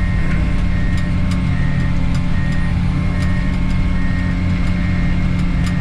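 Komatsu D51 bulldozer's diesel engine running steadily under the operator, with its backup alarm beeping about every 0.8 s while it reverses for another pass; the beeping stops a little after four seconds in. Light clanks from the tracks come through now and then.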